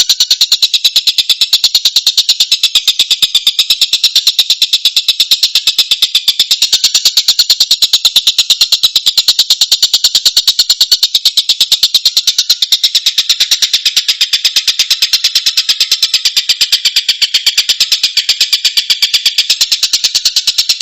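Tengkek buto kingfisher calling in a continuous, fast trill of high, evenly repeated notes, several to the second, that goes on without a break.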